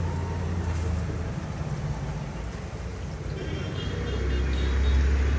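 Low, steady engine rumble of nearby road traffic, swelling louder about four seconds in.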